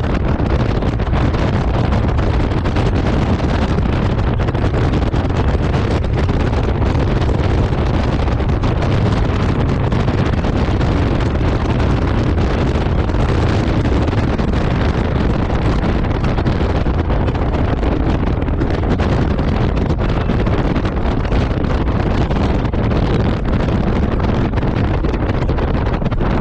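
Wind blasting across the microphone on a Honda Gold Wing motorcycle riding at speed: a loud, steady rush, heaviest in the low end, that buries any engine sound.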